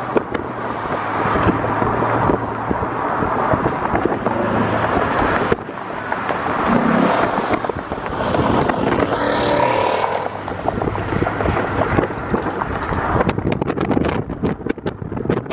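Car on the move: road and wind noise buffeting the microphone, rising and falling unevenly.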